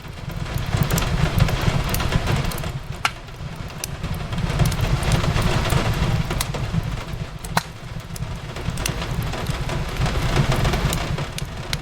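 Wood fire crackling with scattered sharp pops, over a steady hiss of rain on a window and a deep rumble that swells and eases every few seconds.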